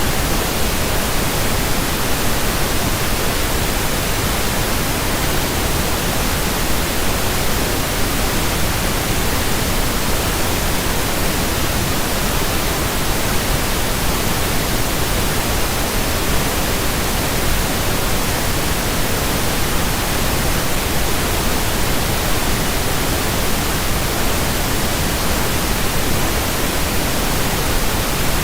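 Steady pink noise: an even hiss across all pitches with no change.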